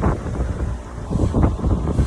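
Uneven low rumbling noise on the microphone, of the kind wind or handling puts on a phone's microphone.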